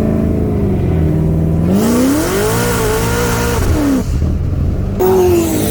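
High-performance car engine accelerating hard, its pitch climbing, levelling off and dropping briefly as it shifts. About five seconds in, a different engine note cuts in abruptly and falls in pitch.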